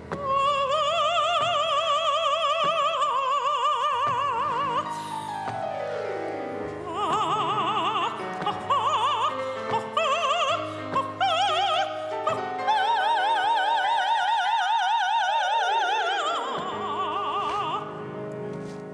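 High operatic voice singing long held notes with a wide vibrato, over musical accompaniment.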